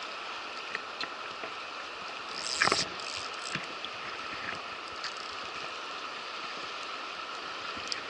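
River water rushing steadily over rocks, with scattered small ticks and a brief louder burst of noise about two and a half seconds in.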